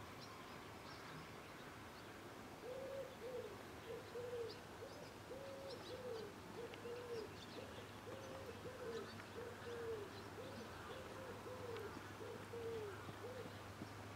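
A bird calling a long series of low hooting, cooing notes, about two a second, starting a few seconds in and stopping near the end, with faint high chirps of small birds above.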